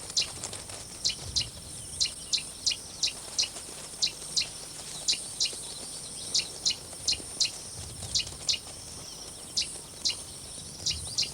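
Wildlife ambience: short, high chirps repeating irregularly about two to three times a second, over a faint steady high hiss.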